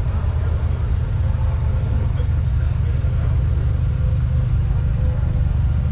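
Steady low rumble, such as a car engine idling close by, with faint voices underneath.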